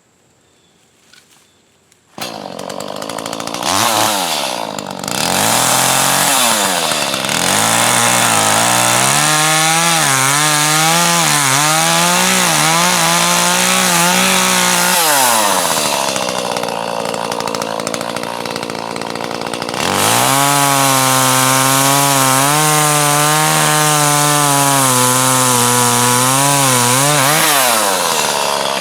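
Chainsaw starting up about two seconds in, revved a couple of times, then cutting through a log, its engine note wavering and dipping under load. It eases back to a lower speed partway through, then makes a second long cut before the revs fall away near the end.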